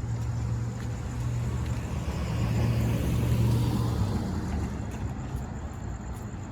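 A motor vehicle going by: a low engine hum with road noise that swells to a peak about halfway through, then fades.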